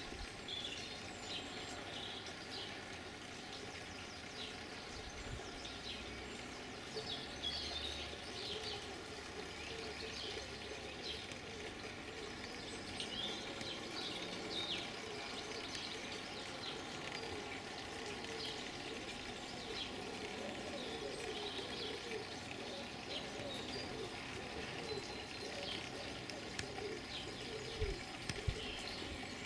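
Garden birds chirping and singing, short calls scattered throughout, over a faint steady hum.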